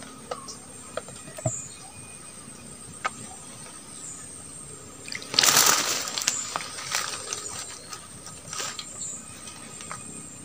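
Handling sounds: scattered clicks and knocks, with a louder rustle lasting about a second just past the middle, as the homemade bird-lime glue is taken out. Faint short chirps recur in the background.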